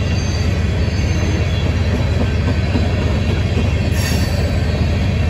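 Freight train of tank cars rolling past: a steady low rumble of steel wheels on rail, with a brief high-pitched sound about four seconds in.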